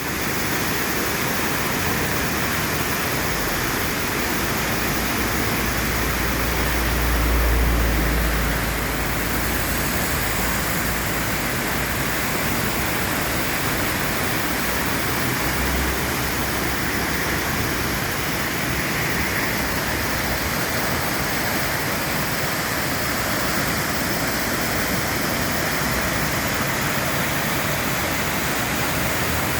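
Fast-moving floodwater in the Santa Ana River, normally a dry riverbed, roaring steadily after days of storm rain. A deep rumble swells briefly about seven seconds in.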